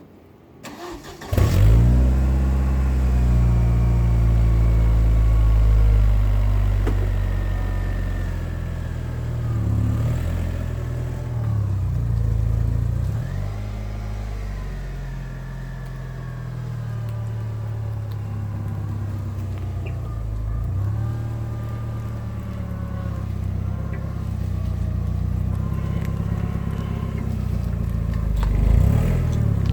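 Chevrolet Vectra Challenge 2.2 16-valve four-cylinder engine running through its stock exhaust. The engine comes in suddenly about a second in, then idles steadily, its pitch rising and dipping a few times.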